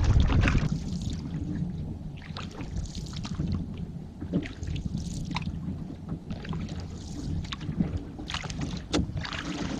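Small knocks and splashes around a canoe on the water, scattered irregularly over a steady low rumble.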